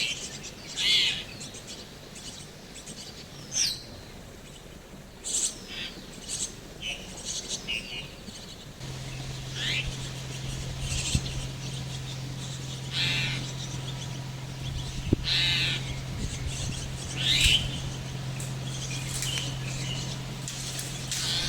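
Birds giving short, harsh calls again and again, one every second or two, some falling in pitch. About nine seconds in, a steady low hum comes in beneath them.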